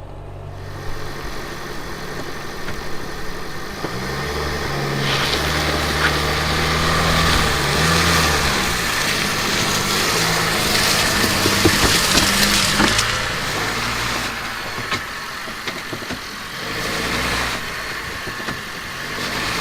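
Car engine revving up and down, with a loud rushing noise over it through the middle, as the car tries and fails to climb a slick, muddy slope: the wheels cannot get grip and the car is stuck. The engine drops back about two-thirds of the way through and rises once more near the end.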